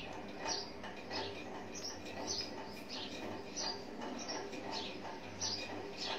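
A bird chirping in short, high, falling notes, repeated about twice a second over a faint steady hum.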